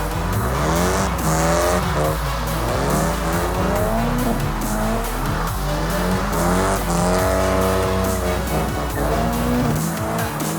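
A car engine revving up and down repeatedly, with tyre squeal, as in drifting, over background music.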